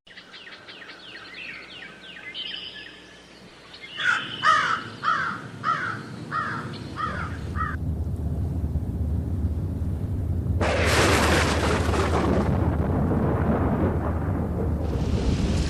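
A bird calling over and over in short falling notes, about two a second, for the first eight seconds. Then steady outdoor noise, with a louder hiss for about two seconds a little past the middle.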